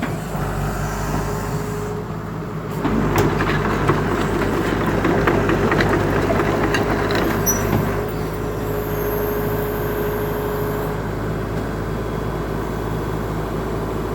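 A 120-size excavator's diesel engine running steadily. About three seconds in it gets louder, with metallic clattering and a held whine for several seconds, as the machine works or moves, then settles back to a steady run.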